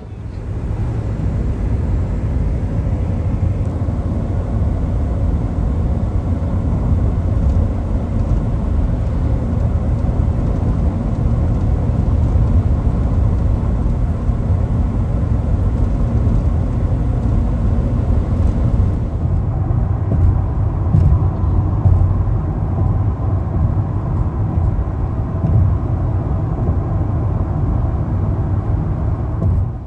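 Steady low road rumble of a car driving.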